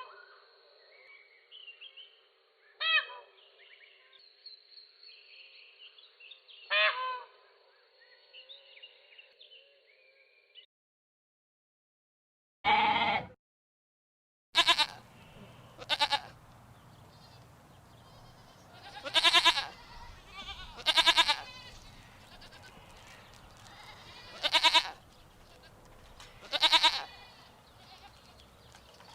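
Goats bleating, one call every couple of seconds, after a shorter, thinner-sounding clip with a few scattered animal calls and a silent break.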